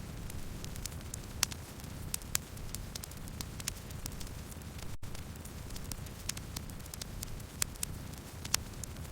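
Campfire burning, with irregular sharp crackles and pops of burning wood over a steady low rush. The sound cuts out for a split second about halfway through.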